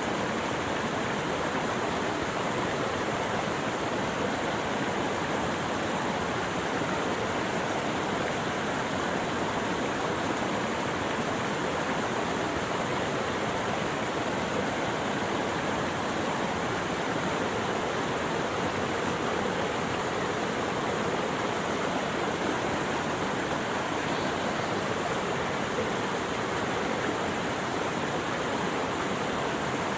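Running water rushing steadily and evenly, with no change in level.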